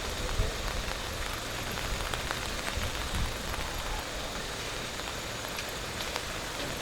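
Steady rain falling, a continuous hiss with a few faint drop ticks, over an uneven low rumble.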